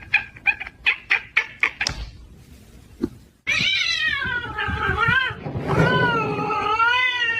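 Cat meowing: a quick run of short cries, then two long drawn-out meows whose pitch wavers up and down.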